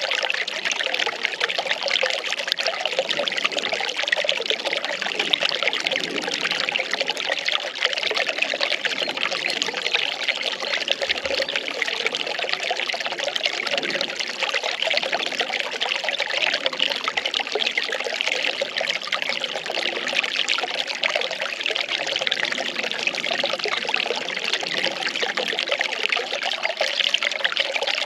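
Well water pouring and trickling steadily, an even splashing rush with no pauses.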